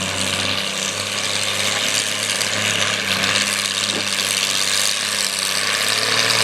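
Farmall tractor engine running steadily under load while pulling the weight sled, over a loud even rushing, scraping noise from the sled and tyres on the dirt track.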